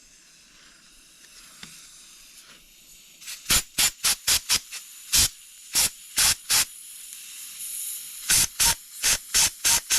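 Compressed-air blow gun firing about fifteen short blasts in two quick clusters, after a faint hiss, as air is pushed through a new sealant injection valve in the engine's bedplate to check that it opens and passes air.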